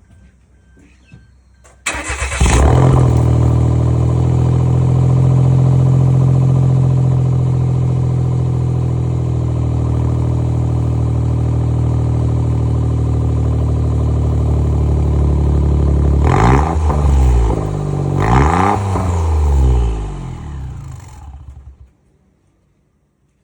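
Suzuki JB23 Jimny's 660 cc turbo three-cylinder starting about two seconds in and idling loudly and steadily through a competition muffler. Near the end it is revved in a few short blips, then switched off.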